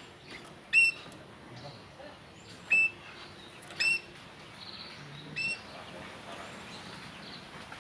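Oriental magpie-robin (kacer) calling in an aviary: four loud, short whistled notes about one to two seconds apart, with fainter chirps between them.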